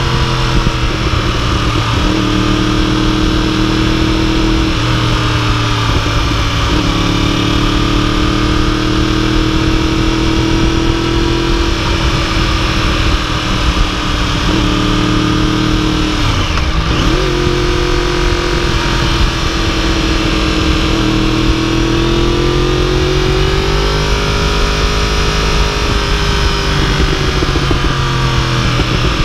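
2015 Yamaha YZF-R1's crossplane inline-four engine running under way at road speed, heard from the bike itself over a steady rush of wind. Its pitch holds fairly level, then dips and climbs back several times as the throttle is eased and rolled on again.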